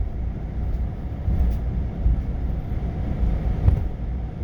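Semi-truck's diesel engine and road noise heard from inside the cab as it drives, a steady low rumble with a brief knock about three and a half seconds in.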